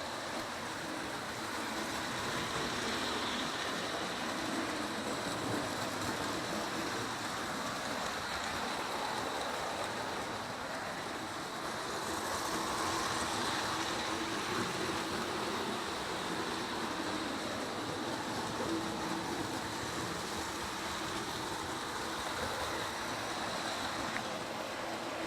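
Model electric trains running around track loops: a steady, even rumble of motors and wheels on rail.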